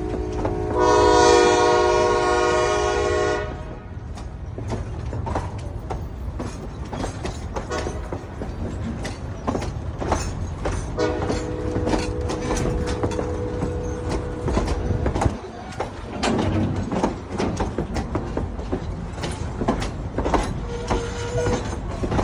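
Durango & Silverton narrow-gauge steam train passing, its whistle blowing three times: a loud blast about a second in, a longer, quieter one midway, and a short toot near the end. Underneath are a steady rumble and irregular clicking of the wheels over the rail joints.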